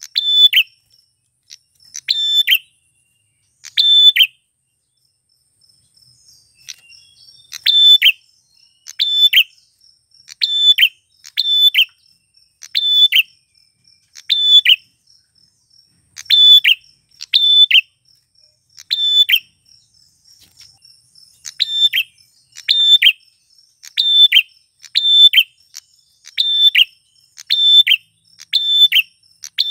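Male prenjak (prinia) calling: short, sharp chirps repeated about once a second, with a pause of a few seconds early on before the calls resume at an even pace.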